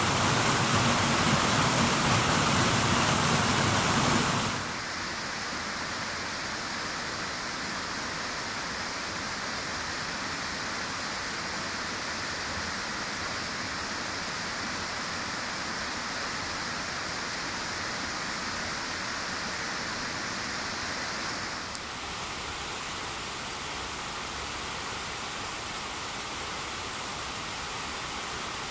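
Steady rushing of flowing water from a stream or waterfall. It drops in level about four and a half seconds in and shifts slightly again around twenty-two seconds.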